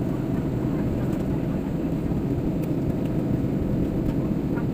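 Steady low rumble of an airliner heard from inside the cabin, with a few faint clicks over it.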